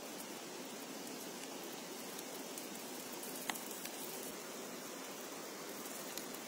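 Steady rain falling, an even hiss, with a few sharp ticks, the loudest about three and a half seconds in.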